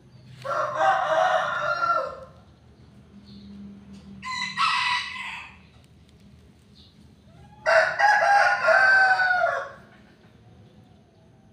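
Roosters crowing: two long crows of about two seconds each, one near the start and one past the middle, with a shorter, higher-pitched call between them.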